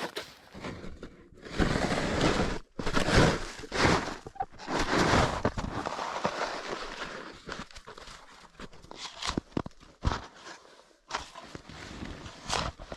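Snow crunching and scraping in irregular bursts as snow is worked or trodden while a snow shelter is being built. The loudest stretch runs from about one and a half to six seconds in, then thins to short scattered crunches.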